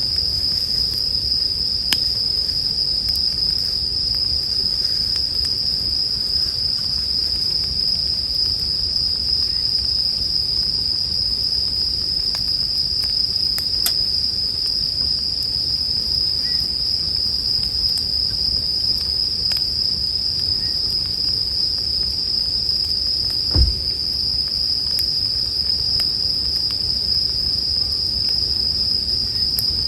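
Japanese bell crickets (suzumushi) singing in a continuous, high, steady trill, over the low rumble and sparse faint crackles of a campfire. One low pop or thump from the fire about three-quarters of the way through.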